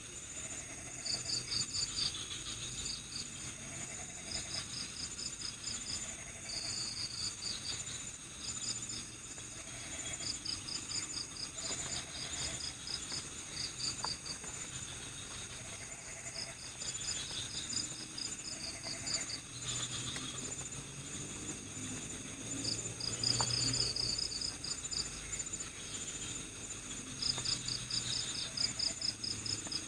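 Crickets chirping at night. Trains of rapid high pulses repeat every second or two over a steady high-pitched insect trill.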